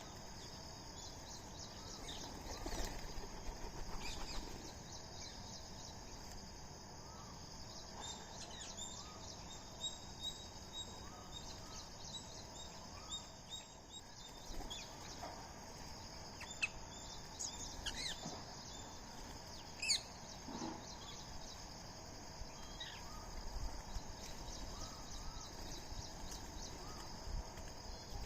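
Faint morning bird chorus: assorted birds chirping and calling at irregular moments over a steady high-pitched buzzing background.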